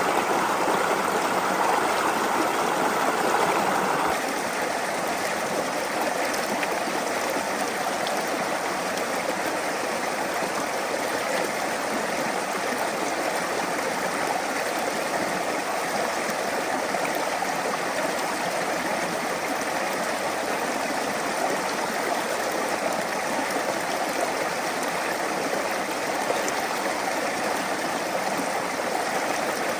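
Small brook flowing steadily over stones, a continuous rush of water. It drops a little in level about four seconds in, then runs on evenly.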